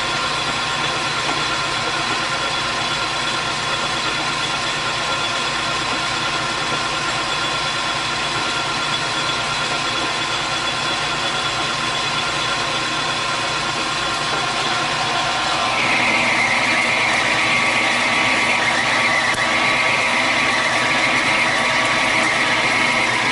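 Metal lathe running steadily, its motor and gear train humming. About two-thirds of the way through, a high-pitched whine joins in and holds as the cutting tool takes a cut on power feed.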